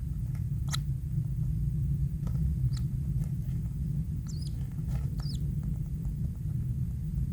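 A few short, thin, high squeaks from kingfisher nestlings in the nest, a couple of them wavering in pitch, over a steady low rumble.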